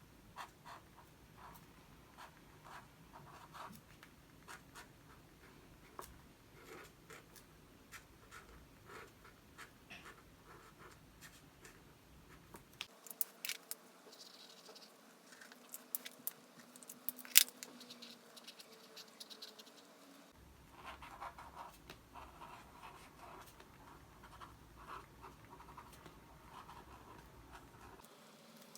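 Faint pen scratching on paper in short strokes while hand-lettering. A stretch in the middle holds several sharp clicks and taps instead.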